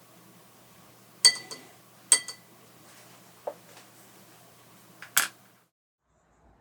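Three sharp clinks of glass or ceramic, each with a brief high ring, and a softer knock between the second and third.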